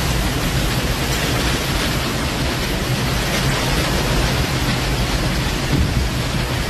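Torrential rain and strong wind of a violent thunderstorm: a dense, steady hiss with a low rumble underneath.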